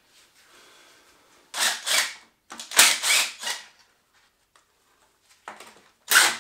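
Metal engine parts and tools clattering as they are handled, in three short bursts: about a second and a half in, around three seconds in, and again near the end.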